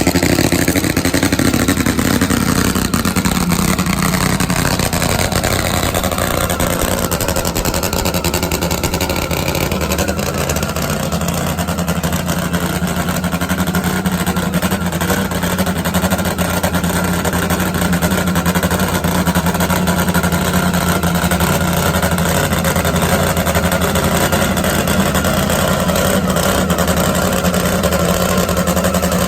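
Top Fuel nitromethane drag motorcycle engine running loud, its pitch falling over the first few seconds and then holding steady.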